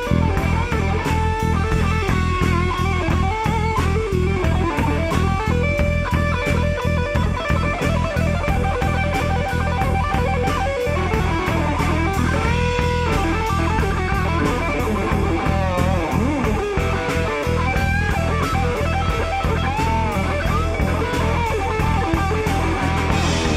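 Live rock band playing an instrumental stretch: an electric guitar lead with bent and sliding notes over a steady bass line and drum kit.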